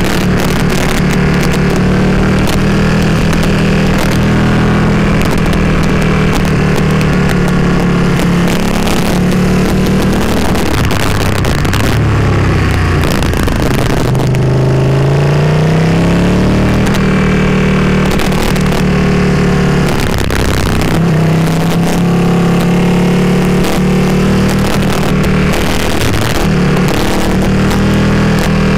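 Motorcycle engine heard from onboard with wind rush, running steadily under throttle through mountain hairpins. The throttle eases off twice, and the engine pulls up again in a rising rev about halfway through.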